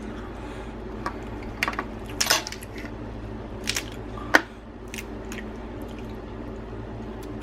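Boiled crab shells being cracked and picked apart by hand, with scattered sharp snaps and wet squishes over a steady low hum; the loudest cracks come a little after two seconds and just after four.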